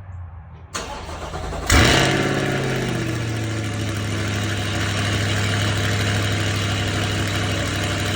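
Cold start of a C8 Corvette's 6.2-litre LT2 V8, running with no catalytic converters, stock exhaust manifolds and the factory Z51 catback. The starter cranks for about a second, then the engine catches with a loud flare. The revs fall away and it settles into a steady cold idle.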